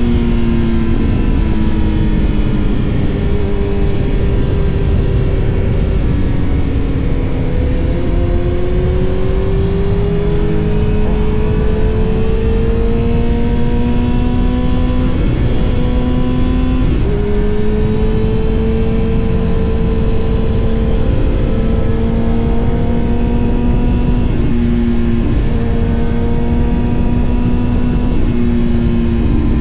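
Motorcycle engine running as the bike is ridden along, its pitch gliding up and down with changes in speed, over a heavy low rumble of wind on the microphone.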